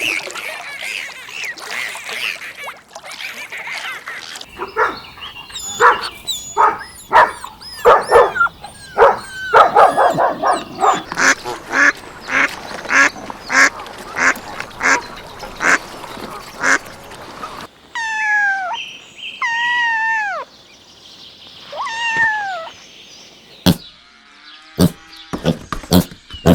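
Ducks quacking, a long run of short quacks at two or three a second. Then come a few longer calls that fall in pitch, and some sharp clicks near the end.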